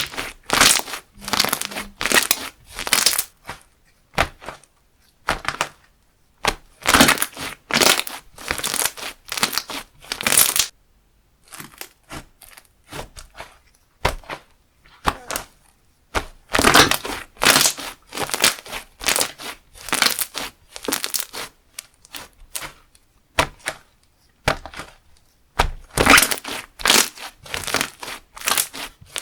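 Slime being squished and pressed by hand in four bouts of dense crackly popping, with short quieter pauses between.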